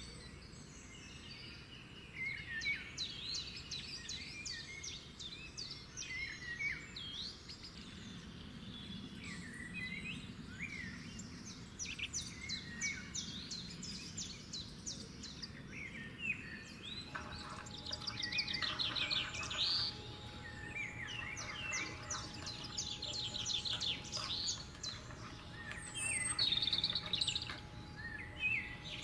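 Small birds chirping and singing, with many short rising and falling notes and fast trills overlapping, busier in the second half.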